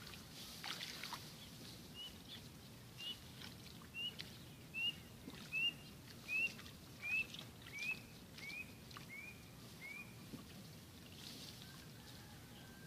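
A bird repeats a short rising chirp about eleven times, just under a second apart, each a little lower in pitch. Underneath is faint rustling of rice plants being pulled and handled.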